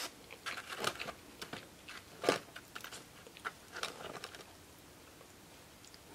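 Close-up chewing of fried chicken fingers and crinkle-cut fries: a string of short crunches and wet mouth clicks, the loudest about two seconds in, tapering off near the end.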